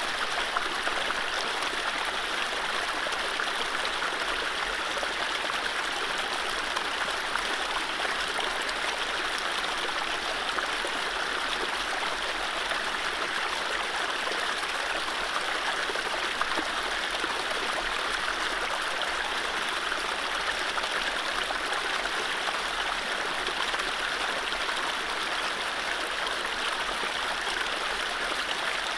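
Mountain stream running over low rapids: a steady rush of water with gurgles and trickles, unchanging throughout.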